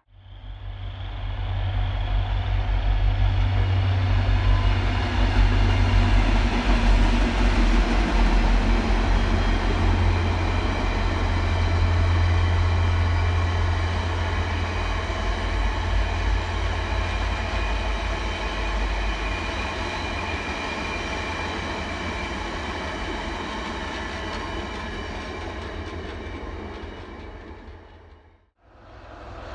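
A diesel-hauled train running by: a heavy low engine rumble and the noise of rolling cars. It swells over the first couple of seconds, then slowly fades away until it cuts off shortly before the end.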